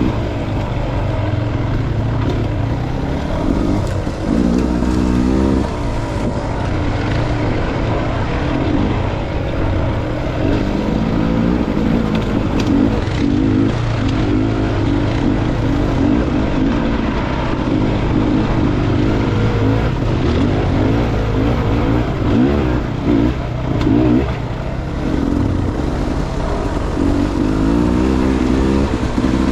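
Dirt bike engine running on a trail ride, its pitch rising and falling over and over as the throttle is opened and closed and the gears change.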